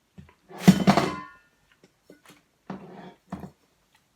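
A loud clatter of something hard knocked or set down on the table close to the microphone, ringing briefly, followed by two softer knocks about two seconds later.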